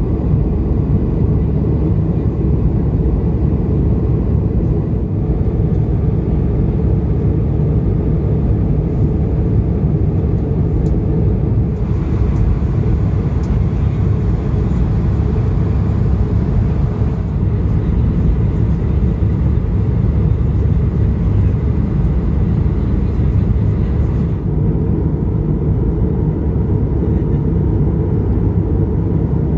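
Steady low rumble of cabin noise inside an Airbus A220-300 airliner: engine and airflow noise heard from a passenger seat, with a little more hiss from about twelve seconds in until about twenty-four seconds in.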